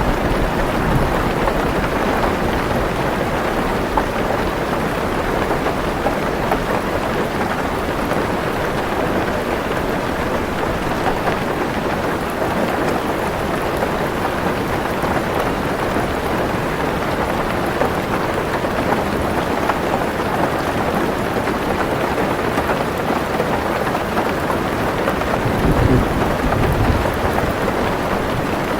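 Heavy rain drumming steadily on a car roof, with low rolling thunder, strongest near the start and again briefly near the end.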